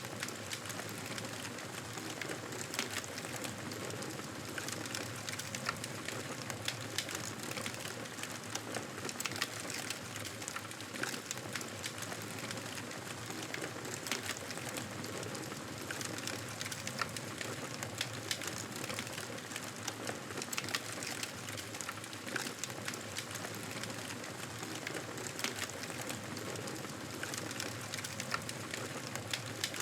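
Wood fire in a fireplace crackling steadily: a constant soft hiss dotted with many small pops and snaps.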